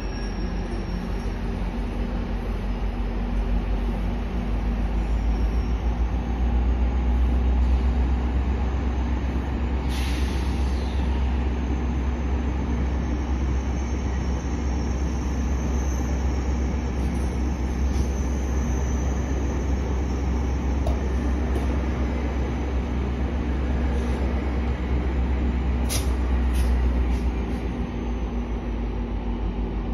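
Steady low drone with a steady hum from a GO Transit diesel train standing at the platform. The drone swells a little and eases off near the end. Two brief sharp hisses, about ten seconds in and again near the end.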